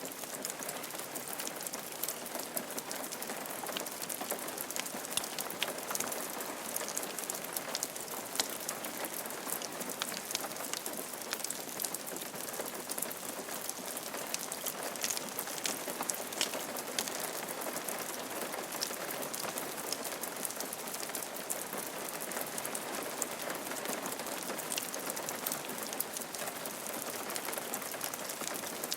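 Steady rain falling on a roof: an even patter with many separate sharp drop ticks.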